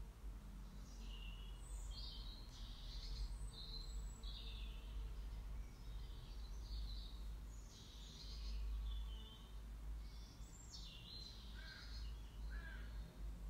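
Faint birdsong: scattered short chirps and calls, heard over a steady low rumble of room noise.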